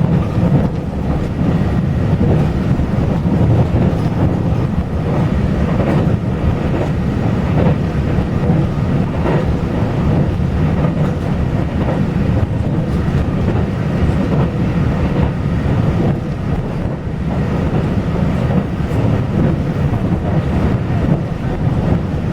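Taiwan Railway local express train running along the line: a steady rumble of wheels on rail with a few faint clicks.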